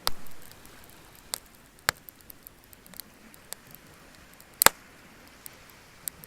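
Wood bonfire crackling: scattered sharp pops and snaps at irregular intervals over a faint hiss, the loudest pop about four and a half seconds in.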